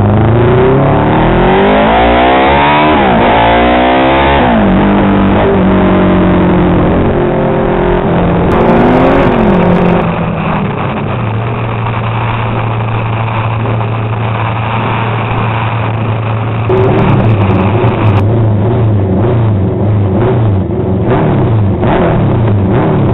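Honda RC181 replica race motorcycle engine: it revs hard with rising pitch sweeps at first, then runs at steadier notes and a lower even tone. Near the end the throttle is blipped repeatedly, more than once a second.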